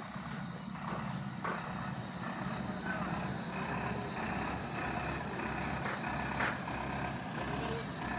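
Tata dump truck's diesel engine running steadily.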